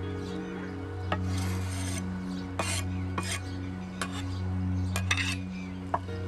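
A utensil stirring and scraping in a cooking pan, with several sharp clinks against the metal, over a steady background music bed.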